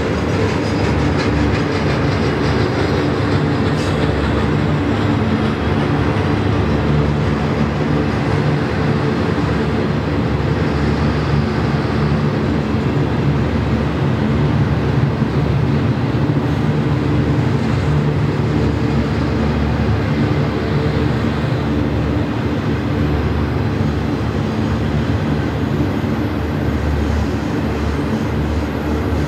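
Double-stack intermodal freight train's loaded well cars rolling past, a steady low rumble of steel wheels on the rails.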